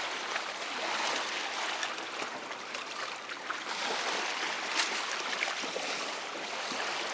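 Water lapping and splashing against a small boat: a steady watery hiss with a few faint knocks.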